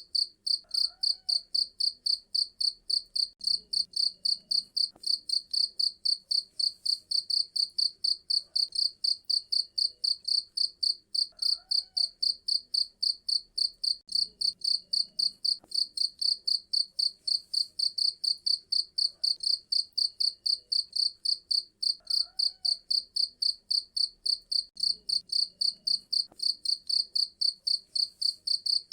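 Cricket chirping steadily: an unbroken train of high-pitched chirps, about four a second.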